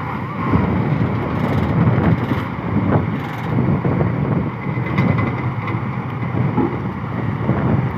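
Heavy diesel engine rumbling, with wind buffeting the microphone.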